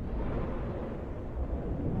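Low rolling rumble of thunder, easing off a little.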